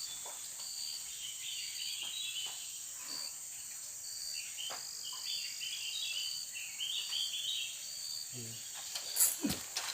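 A steady chorus of insects calling in short repeating pulses. Near the end come a few sudden knocks and rustles.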